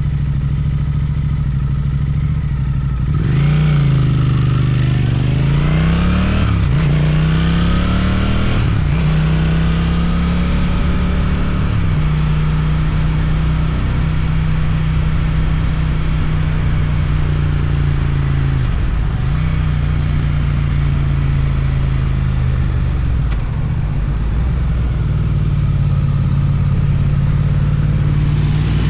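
Suzuki motorcycle with an Akrapovic exhaust, twin-cylinder engine. A few seconds in it accelerates hard, the revs rising and dropping through three or four quick gear changes. It then cruises at steady revs, easing off briefly twice in the second half.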